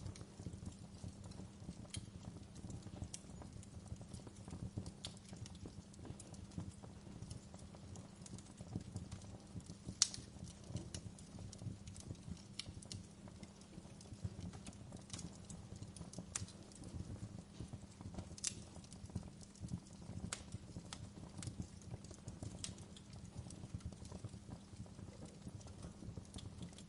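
Wood fire in a fireplace crackling: irregular sharp pops and snaps over a low steady rumble, with one louder pop about ten seconds in.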